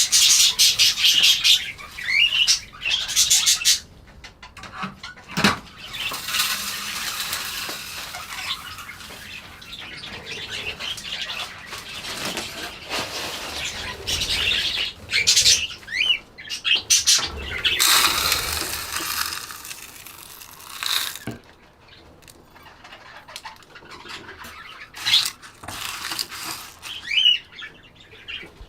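Budgerigars chattering and chirping in a flock, with wing flapping, in busy stretches that come and go.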